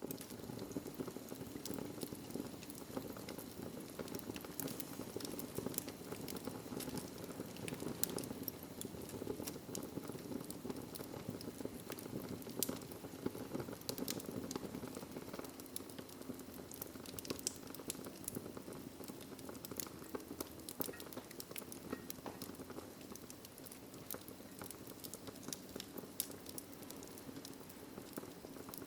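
Wood fire in a fireplace crackling steadily, with frequent sharp pops and snaps over a low rushing hiss.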